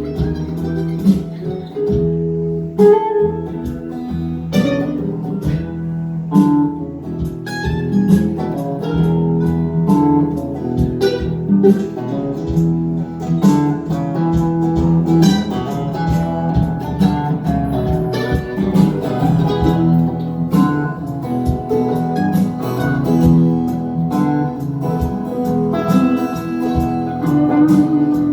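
Instrumental break of a live folk-rock song: acoustic guitar picked and strummed, with a busy run of plucked notes throughout.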